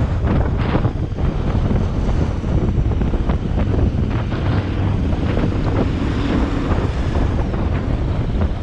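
Loud wind buffeting the microphone, a continuous low rumble with irregular gusty crackles.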